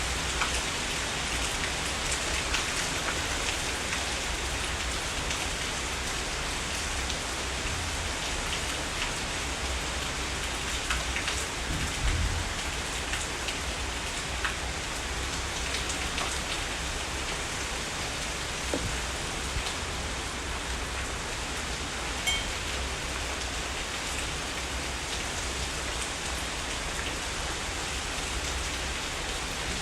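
Heavy rain falling steadily, with single drops ticking now and then over the constant hiss. About twelve seconds in there is a short, low thump.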